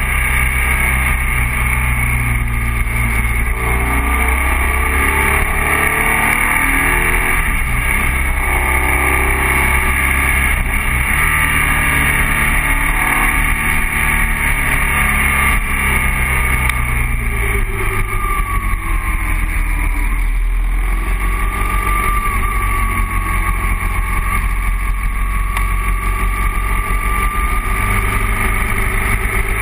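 BMW boxer-twin motorcycle engine running steadily as the bike rides along at road speed, its note shifting several times.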